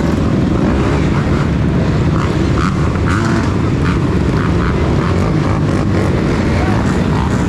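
Enduro motorcycle engine running steadily and loudly, heard on board.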